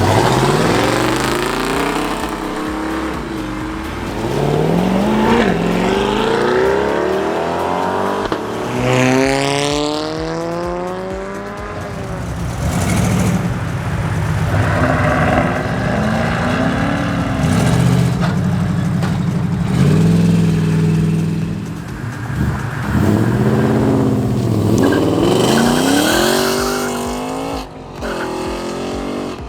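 Car engines revving hard as cars pull away, the engine pitch climbing steeply and falling back again and again.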